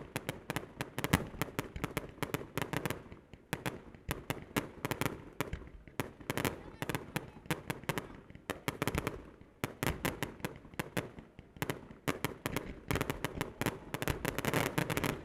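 Starmine fireworks: rapid volleys of shell bursts and crackle, coming in waves with brief thinner spells between them.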